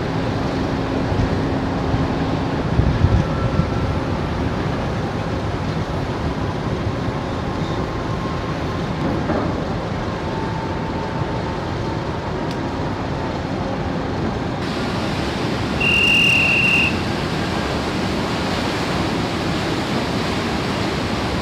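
Steady rumble and rushing wash of the car ferry Ishikari under way, with wind and water noise. A short high beep sounds once, about sixteen seconds in.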